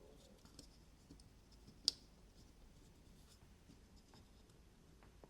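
Faint small clicks and scrapes of a pocket clip being fitted and pressed down onto a folding knife's handle, with one sharp click about two seconds in.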